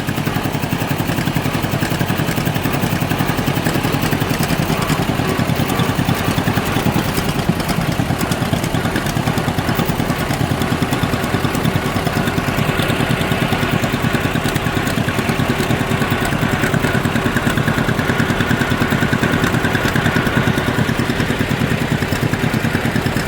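Tractor engine running steadily under the rider, a dense, even run of firing pulses with no change in speed.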